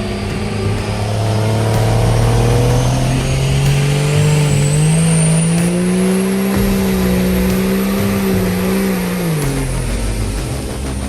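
A truck engine revving up steadily, held at high revs for a few seconds, then let back down near the end, with a faint high whistle rising as the revs climb.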